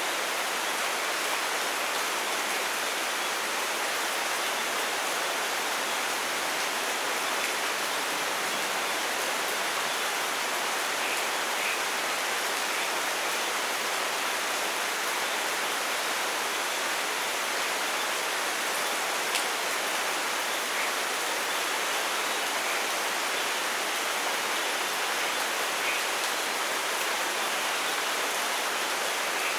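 Steady rainfall in a rainforest, an even hiss of rain with no thunder, with a few faint short calls near the middle and end.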